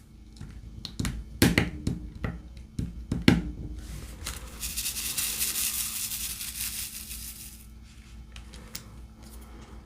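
Diamond painting supplies being handled: several sharp clicks and taps, then a high crinkling, rustling sound for about four seconds that fades out.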